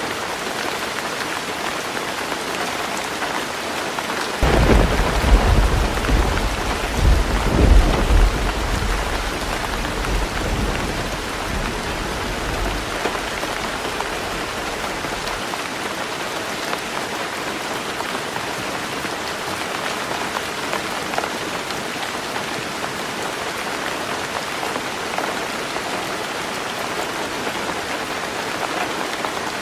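Heavy rain falling steadily on a roof. A rumble of thunder breaks in suddenly about four seconds in, swells for a few seconds, then dies away over the next several seconds, leaving the rain alone.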